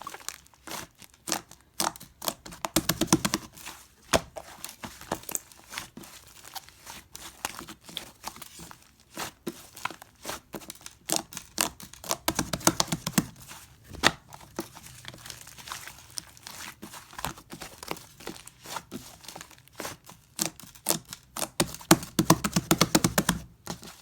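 Brown fluffy slime being squished and stretched by hand, giving a continuous run of sticky crackling pops and clicks, which bunch into louder, denser spells three times.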